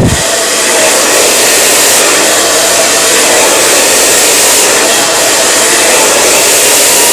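Handheld salon blow dryer running steadily on high, its air blowing through long hair during a blow-dry.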